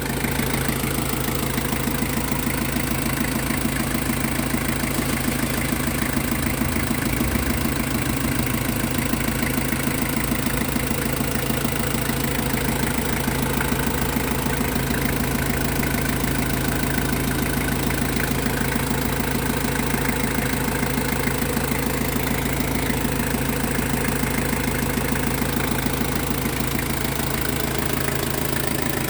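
Mazda Fighter's WL 12-valve four-cylinder diesel engine idling steadily.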